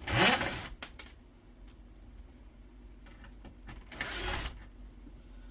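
Cordless screwdriver running in two short bursts, taking screws out of the hob's metal frame, with a few clicks of metal being handled in between.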